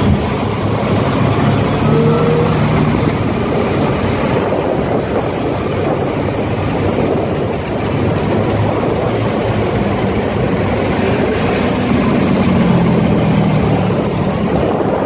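Ural sidecar motorcycle's 750 cc flat-twin engine running while riding in a column of other motorcycles, under a steady rush of wind and road noise.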